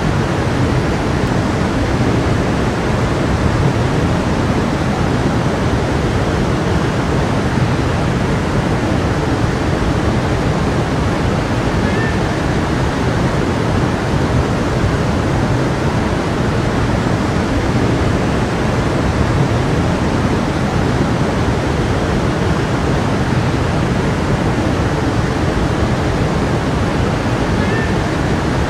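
A stream of running water rushing steadily and evenly.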